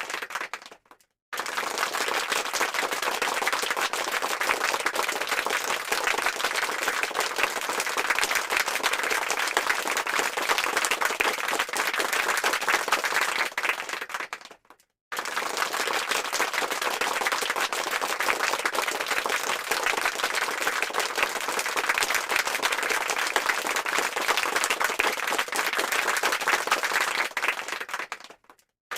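Crowd applause: many hands clapping in a dense, even patter. It plays as a repeated stock sound effect, cutting to brief silence about a second in and again about halfway through before starting over.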